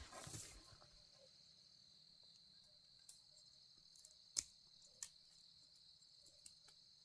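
Faint steady high-pitched insect chirring, like crickets, with a few sharp clicks, the loudest about four and a half seconds in.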